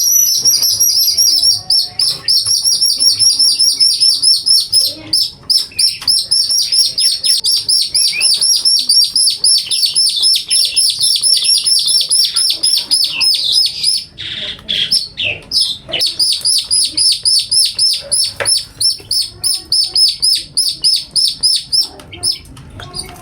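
A pet songbird calling in long, rapid runs of high, repeated down-slurred notes, breaking off briefly about five seconds in and again around fourteen seconds.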